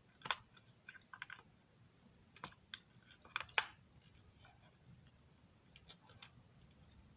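Scattered light clicks and taps of small model railroad car parts being handled and fitted together, irregular, with a few sharper clicks in the middle.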